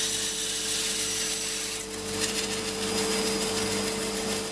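Startrite 401E bandsaw running with a steady motor hum while its dull blade saws through glued-up oak, a dense hiss of cutting that changes texture about two seconds in.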